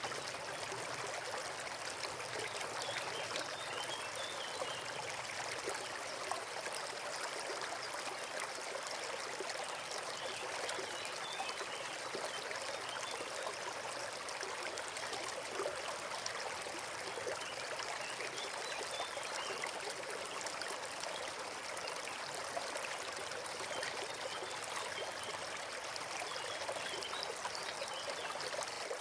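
Small forest stream flowing steadily, an even rush and trickle of water without pause.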